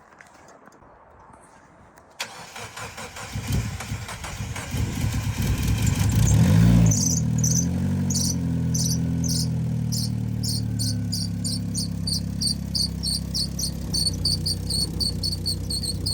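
Turbocharged Mazda MX-5 Miata NB's 1.8-litre four-cylinder engine being started: about two seconds in it cranks and catches, revs up to a peak, and from about seven seconds settles into a steady idle. A rhythmic high-pitched chirping runs over the idle.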